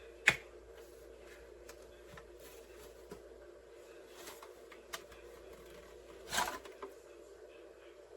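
Steady low hum of the Narwal S20 Pro's docking base running its roller-drying cycle. A sharp click sounds a fraction of a second in, a few faint ticks follow, and a short rustling noise comes about six seconds in.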